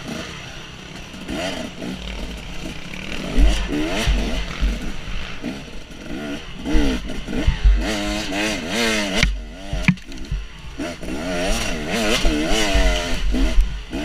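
Dirt bike engine revving up and down repeatedly as the throttle is worked along a tight trail, over a heavy low rumble on the microphone.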